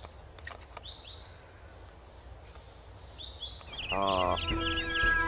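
Small birds calling with short, high, falling chirps, repeated every second or so, over faint outdoor background noise. Near the end, music comes in with sustained notes and gets louder.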